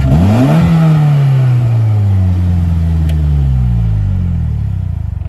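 2015 Polaris Slingshot's 2.4-litre four-cylinder engine, warmed up, given a quick throttle blip just after the start. The revs then fall slowly back down over the next few seconds.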